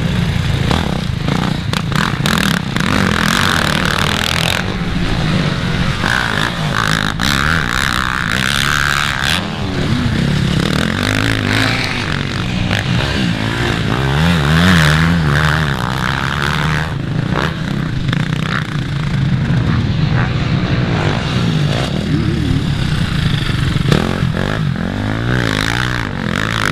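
Motocross dirt bike engines revving on the track, their pitch rising and falling continuously as the throttle opens and closes.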